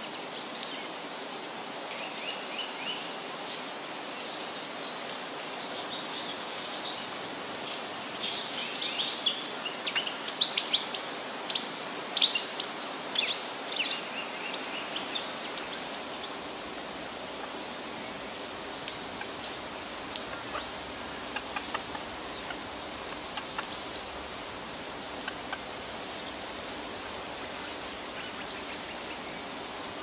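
Birds chirping and calling in quick bursts of short notes, busiest and loudest about a third of the way in and sparser afterwards, over a steady outdoor background hiss.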